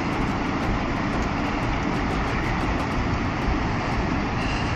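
A steady, even roar of wind and surf at the shore, with no separate crashes standing out.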